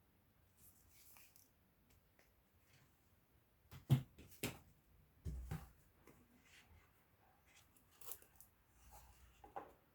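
Unboxing handling noise: the earphone packaging being opened and handled, scattered soft rustles and clicks with a sharp click about four seconds in and a dull knock just after.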